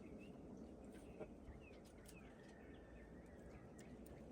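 Near silence with a few faint, short bird chirps scattered through it.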